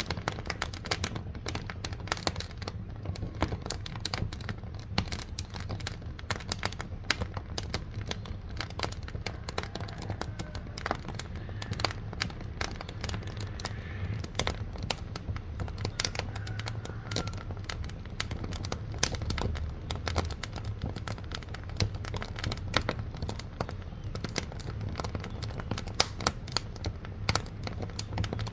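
Wood fire burning in a wood-fired cooking stove, crackling with dense, irregular sharp pops over a low steady rumble.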